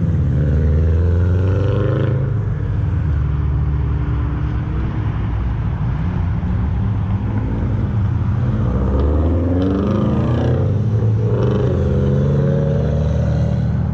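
Car engines accelerating hard as cars drive away. The engine pitch climbs near the start and climbs again in several overlapping sweeps in the second half.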